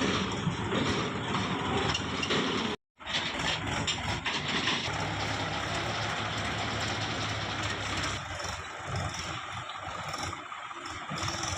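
Heavy diesel machinery running at a worksite, the engines of a backhoe loader and tractors working. The sound cuts out completely for a moment about a third of the way in, then a steadier low engine drone carries on.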